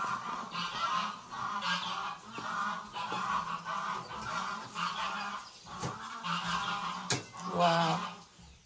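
Bird calls repeated over and over, about one a second, with a louder call near the end.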